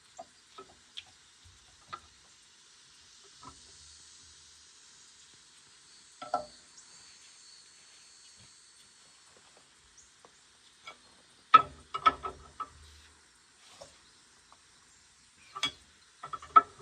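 Scattered short clicks and clinks of hand tools and hose fittings being handled during hydraulic hose removal on a skid steer. The sounds come as a few isolated taps, with two louder flurries, one about twelve seconds in and one near the end.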